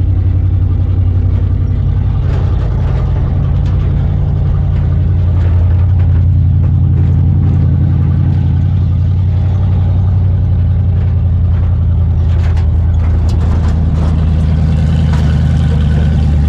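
Engine of a 1980 Jeep J10 crew cab truck running steadily, its pitch shifting slightly up and down.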